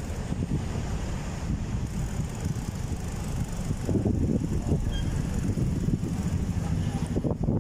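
Wind buffeting the microphone of a camera mounted on a moving bike: a steady low rumble that grows a little louder about halfway through.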